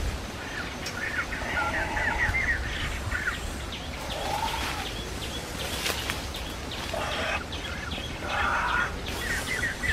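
Birds chirping: many short, overlapping chirps and calls, with a steady low rumble underneath.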